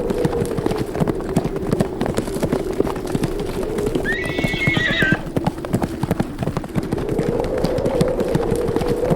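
Horses galloping, a continuous rapid patter of hoofbeats, with one horse whinnying for about a second about four seconds in. A whistling wind runs underneath, its pitch sinking slowly and rising again.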